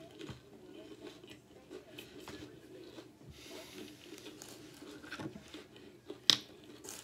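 A mouthful of fried onion ring being chewed, with soft crunches and wet mouth clicks, and one sharp click near the end.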